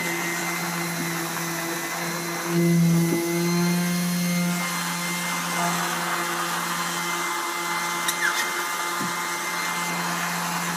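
A small electric motor running steadily with a constant hum, swelling louder for about a second some two and a half seconds in.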